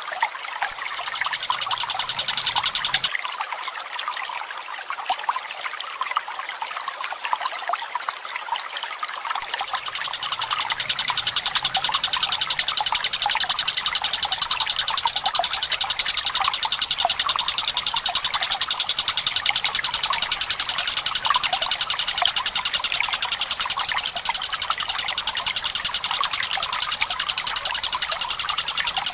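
Tengkek buto bird calling in a long, rapid rolling trill over steadily trickling water. The trill grows stronger about a third of the way through.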